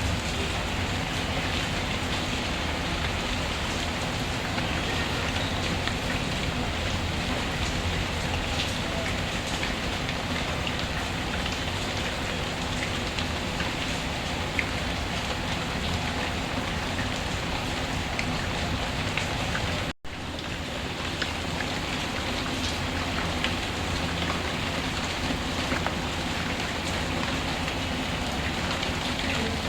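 Steady rainfall with occasional small crackles from a wood fire. About two-thirds of the way through, the sound cuts out for a split second and then comes back.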